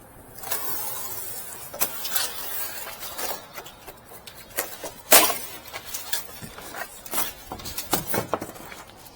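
Rustling and scraping handling noise with scattered clicks and knocks, the loudest knock about five seconds in, as a refrigerator is worked on by hand.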